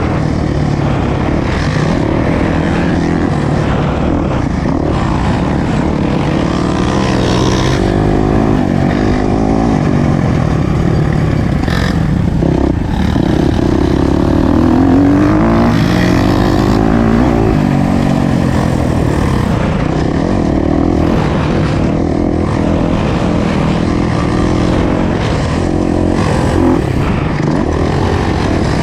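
Motocross bike engine revving up and down over and over as it is ridden around a dirt track, the pitch rising and falling through the throttle changes.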